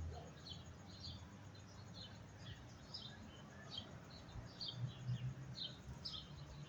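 A small bird chirping over and over, about two short, high chirps a second, faint against a low background hum.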